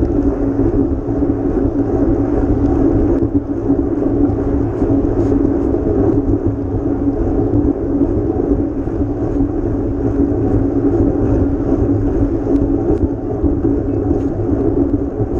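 Steady wind and road noise from riding a bicycle, with a few faint ticks scattered through it.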